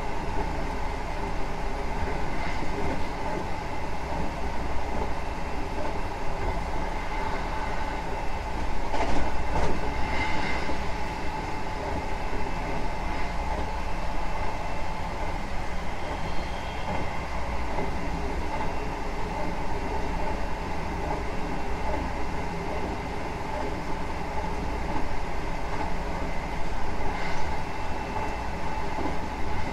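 Hankyu 9000 series electric train running at a steady speed, heard on board: a continuous low rumble of wheels on rail with a steady whine held throughout. A few sharper clicks come about a third of the way in and again near the end.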